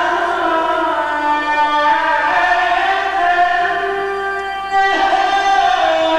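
A man's voice chanting Quran recitation in the ornamented mujawwad style, holding long melodic notes with slow turns in pitch, moving to a new, louder phrase about five seconds in.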